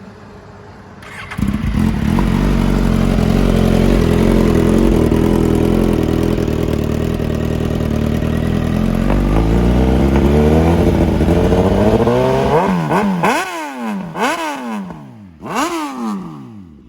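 Suzuki GSX-S1000 inline-four running through an SC Project aftermarket exhaust: it comes in loud about a second in, runs steadily, climbs in revs, then gives several quick throttle blips near the end.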